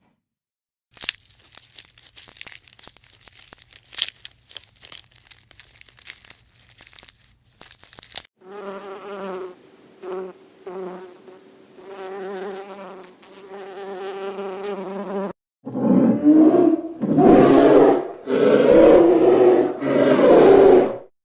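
A run of animal sounds: scattered clicks, then a steady, wavering insect buzz lasting several seconds, then a few loud animal calls near the end.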